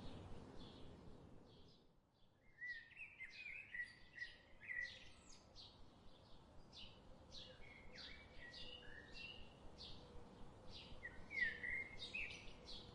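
Small birds chirping: a steady run of quick, high chirps, with warbling song phrases coming in several times.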